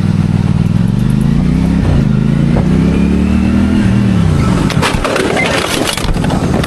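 A high-powered motorcycle engine revs up hard, its pitch climbing, then falls away about four seconds in. A burst of sharp cracks and clattering impacts follows as the machine crashes.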